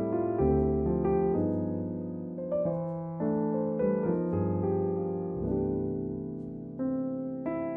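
Background piano music: soft chords struck and left to ring, changing about once a second.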